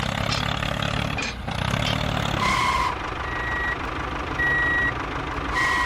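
A truck engine running steadily, with a reversing alarm that starts beeping about two and a half seconds in: four high beeps, about one a second.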